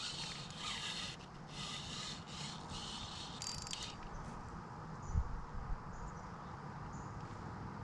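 Fishing reel being cranked in short whirring bursts while a hooked bass is reeled in, with a low thump about five seconds in.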